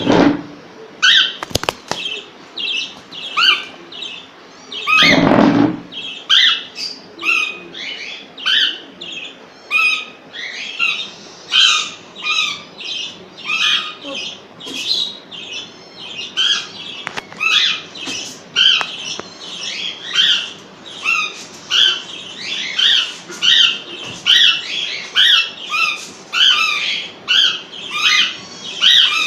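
Parrot chicks giving short, harsh begging calls over and over, about two a second, as they beg to be fed. A brief scuffle of noise about five seconds in.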